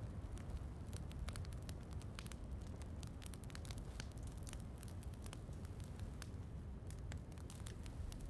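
Wood fire crackling, with irregular sharp pops several times a second over a steady low rumble, mixed with the even hiss of rain.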